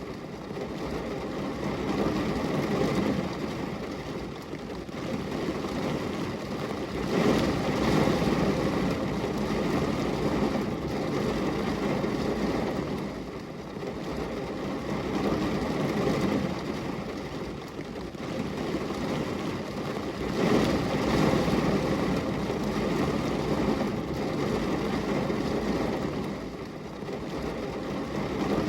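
Rain falling on a glass window: a dense, even hiss with most of its weight low, swelling and easing every several seconds.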